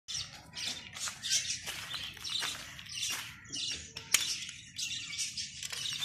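Small birds chirping in quick, repeated short bursts, with one sharp click about four seconds in.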